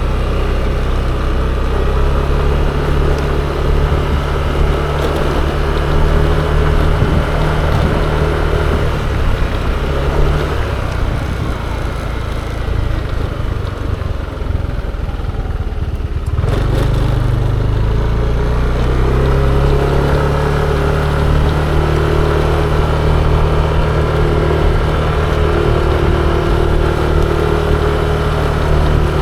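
Yamaha Aerox 155 scooter's single-cylinder engine running under way, mixed with road noise. The engine eases off and quietens about a third of the way through, then picks up again a little past halfway and runs steadily.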